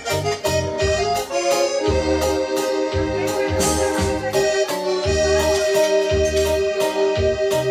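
Live band playing an instrumental passage between verses: accordion holding and sliding between sustained melody notes over a pulsing bass line and a steady drum beat.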